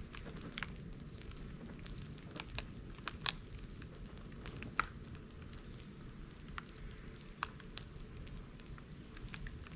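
Bonfire of dried bamboo and brush crackling: irregular sharp pops and snaps over a steady low rumble of the flames, with the loudest pops about three and five seconds in.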